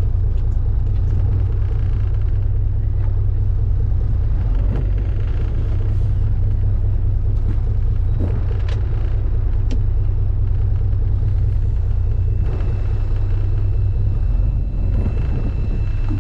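Steady low engine rumble of a fishing boat under way, with a few faint clicks over it.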